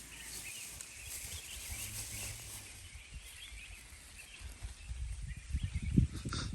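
Forest ambience with faint, scattered bird chirps, and low thumps and rustling that grow louder over the last couple of seconds, the loudest about six seconds in.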